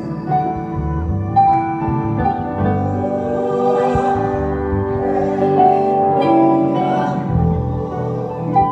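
Instrumental worship music: held keyboard chords that change every second or two.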